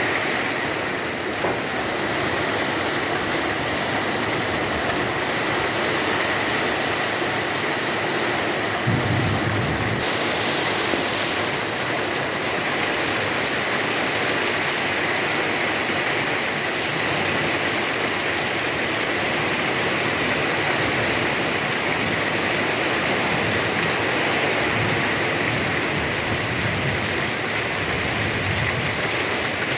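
Heavy rain pouring steadily, with a brief low rumble about nine seconds in.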